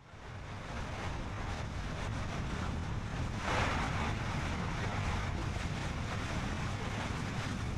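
Car driving on a road: steady tyre rumble and wind noise, fading in at the start, with a brief louder whoosh about three and a half seconds in.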